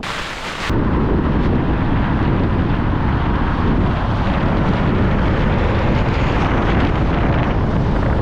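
Strong wind buffeting the microphone: a loud, steady rushing noise, heaviest in the low end, that sounds like a jet aircraft. It starts abruptly about a second in.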